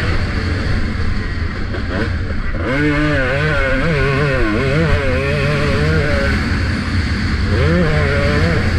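Motocross bike engine revving up and down as the throttle is worked, pitch rising and falling repeatedly, with a brief easing off about two seconds in. Heavy low wind rumble on the helmet-mounted camera runs under it.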